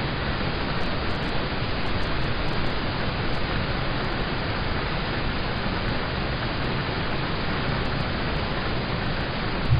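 Steady rain falling on a car, heard from inside the cabin as an even hiss of drops; a brief low thump right at the end.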